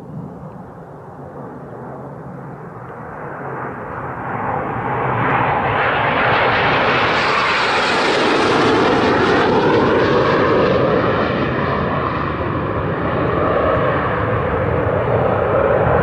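A loud rushing roar with an engine-like tone that swells over the first five seconds, holds, and wavers in pitch in its second half.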